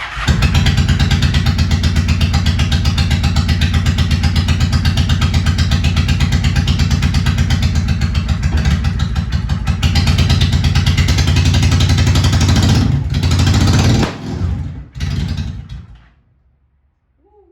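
A 2001 Honda Shadow 750 ACE's V-twin engine catches on a cold start and runs with a loud, pulsing beat for about fourteen seconds. It then stumbles twice and dies: a cold engine that won't keep running, which the rider puts down to the cold and reaches for the choke.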